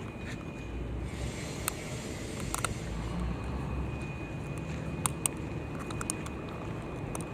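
Steady low rumble of city or transit background noise, with a thin steady high whine for much of the time and scattered sharp clicks.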